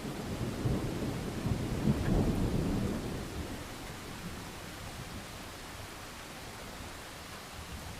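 Thunder rumbling deep and low over steady rain, fading away about three seconds in and leaving only the rain's even hiss.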